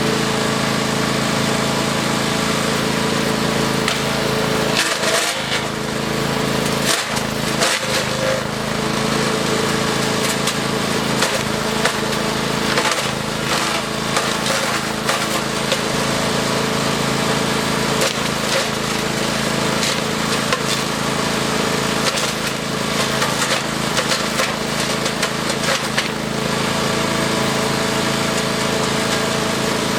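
Gas-engine wood chipper running steadily under load, with frequent sharp cracking and snapping as branches are fed in and chipped.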